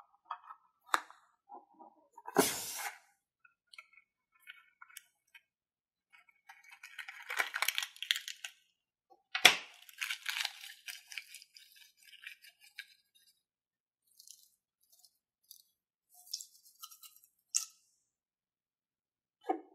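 Slime being worked by hand close to the microphone: sticky crackling and clicking in bursts, with a few sharp snaps, the loudest about two and a half seconds in and another about nine and a half seconds in.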